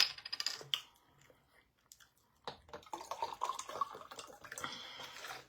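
A person drinking water: liquid sounds with small clicks, starting about two and a half seconds in after a short quiet spell.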